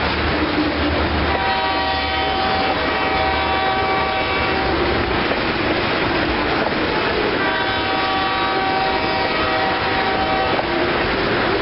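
Loaded ethanol tank cars rolling past close by, with steady wheel and rail noise. Over it, a train horn sounds two long blasts from the head end, one about a second in and another about seven and a half seconds in.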